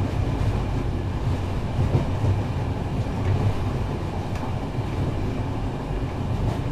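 A train running on rails with a steady low rumble, laid over the end card as a sound effect.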